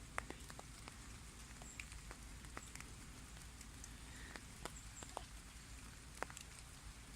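Light drizzle in a birch forest: scattered, irregular ticks of raindrops falling on leaves, faint over a low steady rumble.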